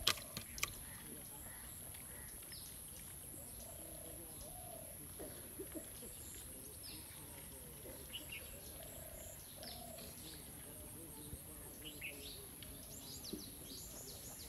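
Small birds chirping in short, scattered calls over a faint outdoor background, with two sharp clicks in the first second.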